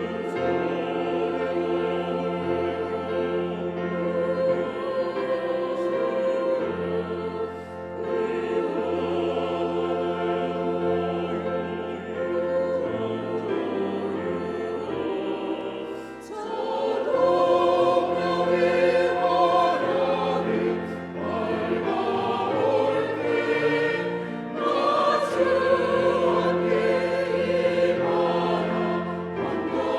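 Church choir singing a sacred anthem with instrumental accompaniment, in long sustained phrases that swell louder a little past halfway.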